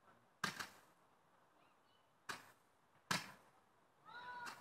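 Fireworks cracking in the dark: two sharp pops close together about half a second in, then single cracks a couple of seconds later. A short rising-and-falling tone comes near the end.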